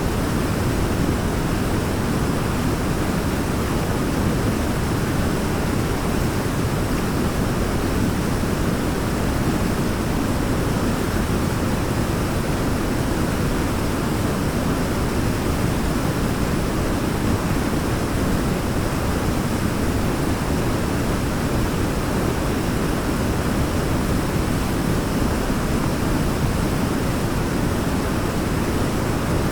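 Waterfall: a steady rush of falling water, deep and even, with no breaks or changes.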